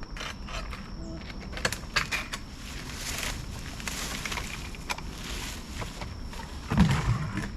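Footsteps and rustling through brush with scattered clicks and knocks of plastic contractor buckets being handled, ending in a few heavy low thumps as a bucket is set down.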